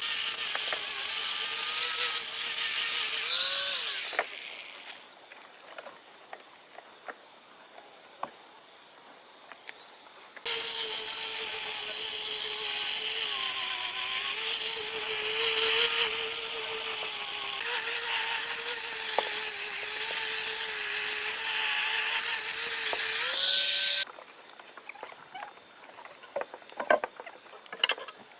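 Chainsaw running at high revs, cutting wood. It runs for about four seconds and winds down, leaving a gap of several seconds with a few faint knocks. It then starts again suddenly, runs steadily for about fourteen seconds with its pitch dipping slightly under load, and stops abruptly.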